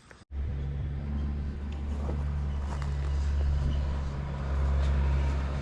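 A steady low engine hum begins after a brief cut to silence and holds at an even pitch, rising slightly in level about four and a half seconds in.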